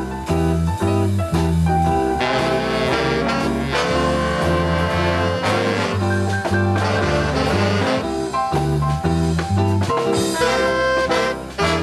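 Swing big band playing an instrumental passage: brass section over a steady bass line.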